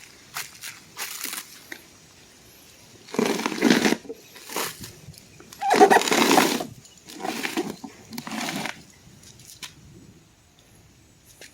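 Packaging being handled while a chainsaw is unboxed: several short bursts of rustling and crumpling, strongest a little past the middle, with scattered clicks and knocks between them.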